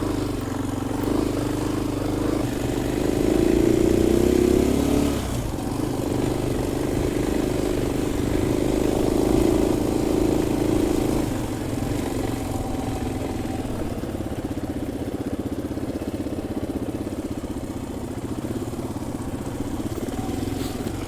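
KTM 500 EXC-F single-cylinder four-stroke dirt bike engine running on a rough track, the revs climbing a few seconds in, dropping back, rising again, then settling into a lower, steadier note for the second half.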